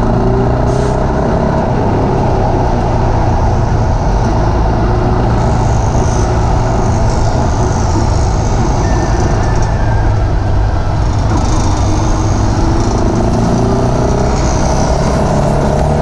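GPX Legend Gentleman 200 motorcycle's single-cylinder engine running steadily while riding, loud and close, with the noise of city traffic around it.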